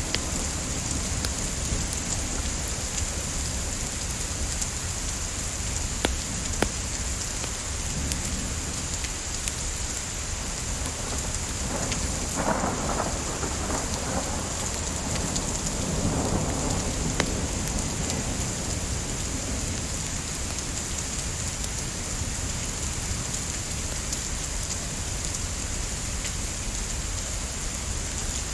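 Steady rain hiss with a low rumble beneath, swelling twice in the middle like distant thunder, and a few sharp pops from a crackling wood fire.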